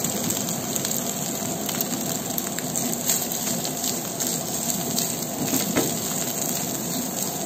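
Sliced boiled chicken liver frying in hot oil with shallots, garlic and chili: a steady sizzle, with a few light clicks as a silicone spatula stirs the pan.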